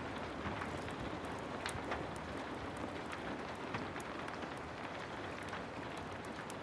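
Heavy rain falling steadily: a constant, even hiss with many scattered sharp ticks.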